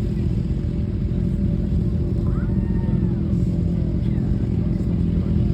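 Harley-Davidson motorcycle engines running steadily, low-pitched and even, with no revving, and faint voices in the background.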